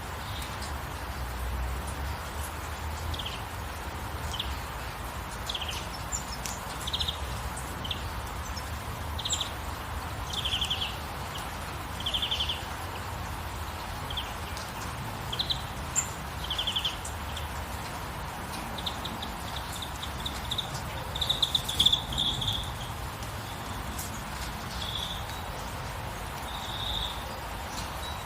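Short, high chirps repeat every second or so over a steady background hiss, some of them with a fast, buzzy trill. About twenty seconds in, a quick run of ticking chirps gives way to longer buzzing trills. That run is the loudest part.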